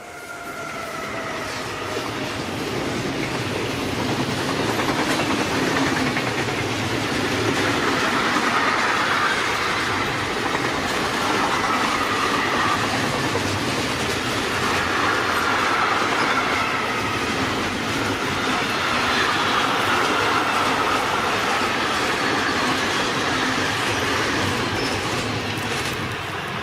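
Train running past on the track, its wheels clattering steadily over the rails, with high wavering squealing tones from the wheels. The sound builds over the first couple of seconds, then holds steady and eases slightly near the end.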